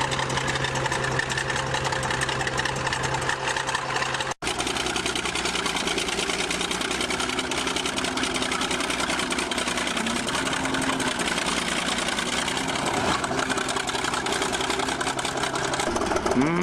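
Bulldozer's diesel engine running steadily, with a brief break in the sound about four seconds in.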